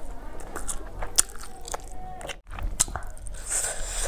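Close-miked chewing of a mouthful of rice and fish curry, with scattered sharp wet clicks. The sound drops out for an instant a little past halfway.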